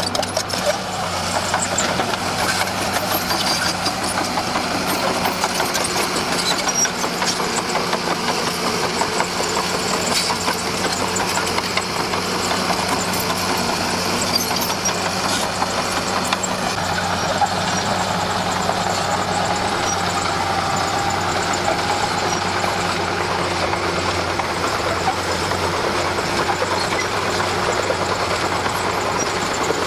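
Komatsu D41P crawler bulldozer's diesel engine running steadily under load, with a dense rattle that fits the tracks clattering.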